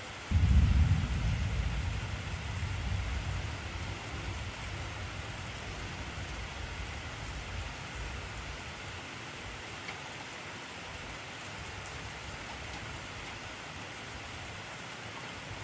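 Heavy rain falling steadily. Just after the start a deep rumble of thunder breaks in suddenly, then slowly fades over several seconds.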